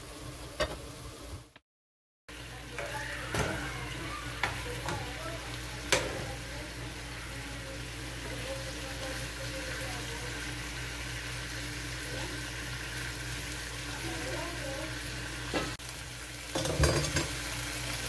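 Chicken pieces sizzling as they fry in a nonstick pan, with a few knocks and scrapes of plastic tongs turning them against the pan. The sound cuts out completely for about half a second near two seconds in.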